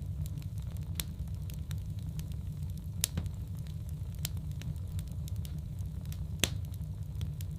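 Wood fire burning in a fireplace, crackling with irregular sharp pops over a steady low rumble. The loudest pops come about three seconds in and again about six and a half seconds in.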